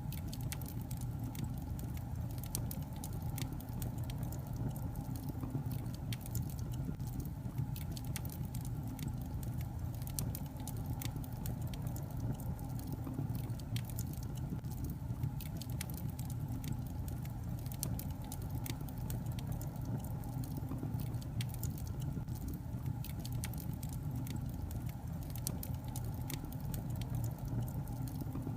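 Wood log fire crackling: irregular sharp pops and snaps over a steady low rumble of the burning fire.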